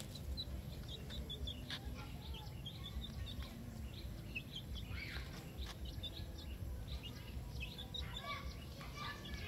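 Small birds chirping repeatedly in short high notes over a steady low rumble of outdoor background noise.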